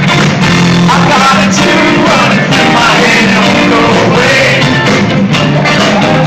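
Rock band playing live, loud, with electric guitar and a singer, recorded on a mobile phone.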